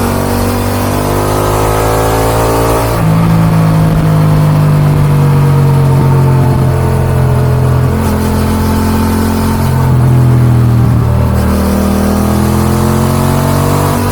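Yamaha XSR 700's parallel-twin engine through an Akrapovic dual exhaust, pulling with rising pitch for about three seconds, then falling slowly as the bike eases off, with gear changes along the way, and rising again near the end. Wind rushes over the microphone throughout.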